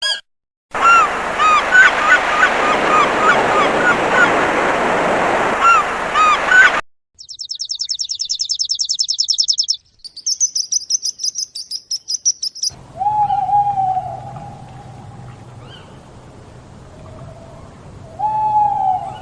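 A run of separate animal-call clips, mostly birds: first a dense chatter of many short calls, then two rapid high trills, then a few lower drawn-out calls over a faint hum.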